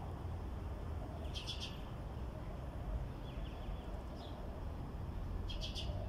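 Small birds chirping: a quick cluster of high chirps about a second and a half in and another near the end, with a couple of fainter calls between, over a steady low rumble.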